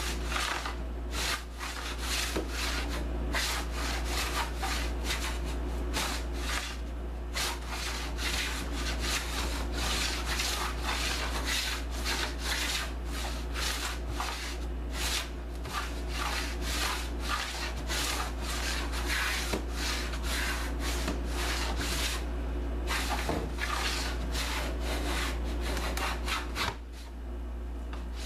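A restored antique hand plane taking shavings off a board in quick repeated strokes, a couple a second, with a short pause about 27 seconds in. A steady low hum sits underneath.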